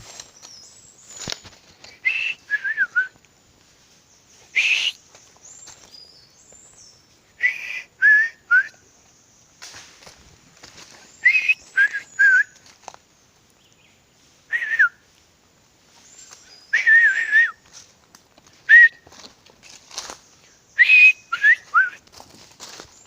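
A person whistling short bird-like calls, a quick wavering phrase every second or two. Thin high chirps sound above the whistles, and there are occasional crackles like steps in brush.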